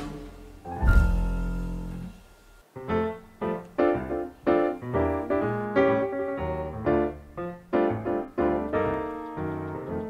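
Instrumental background music on piano: a chord rings out about a second in and fades, then notes follow at roughly two a second.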